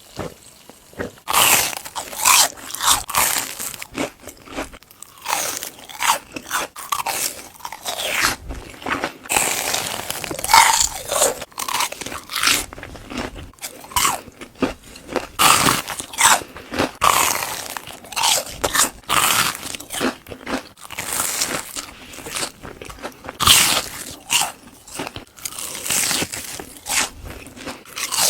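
Close-miked crunching of fried food: repeated bites and chewing with crisp, irregular crunches.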